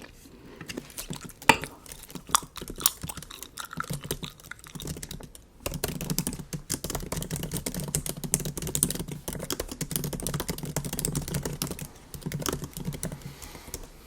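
Typing on a MacBook keyboard: scattered key taps at first, then rapid, continuous typing from about six seconds in until shortly before the end.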